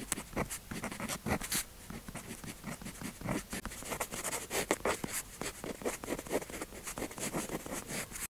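Pen tip scratching on paper in quick, irregular strokes while writing or swatching colour; it stops abruptly near the end.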